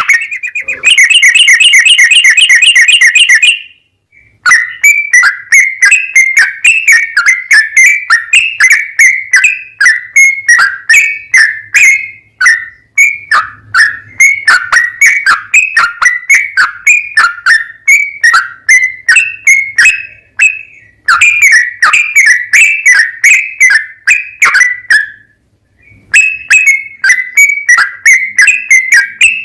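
Yellow-vented bulbul (trucukan) singing a long, rapid run of chirping notes, loud and harsh. The run breaks off briefly about 4, 21 and 25 seconds in.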